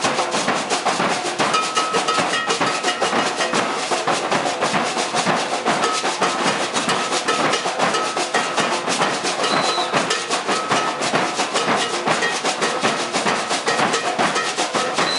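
Maracatu de baque virado percussion ensemble playing a fast, dense, steady rhythm of drums, with a ringing bell-like tone recurring on the beat.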